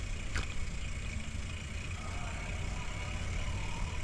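Wind rumbling on the microphone of a bicycle-mounted action camera while the bike coasts downhill without pedaling, with steady rolling noise; a single sharp click about half a second in.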